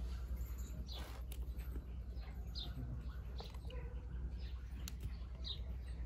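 Small birds chirping, with short high falling chirps every second or so over a steady low rumble.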